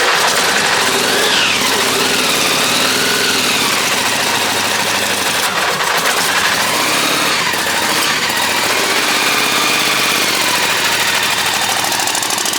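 A custom show car's engine running loud just after start-up, revved up and down several times.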